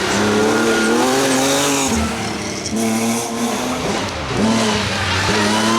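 Rally car engine revving hard. The pitch climbs and then drops sharply several times as the driver lifts off and changes gear.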